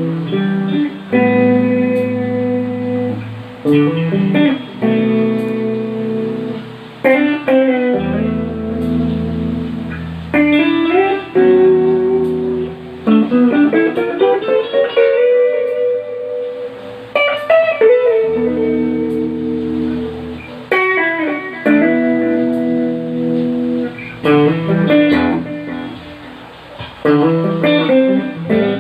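Solo guitar playing neo-soul: ringing chords broken by melodic runs, with a note sliding upward about 13 seconds in.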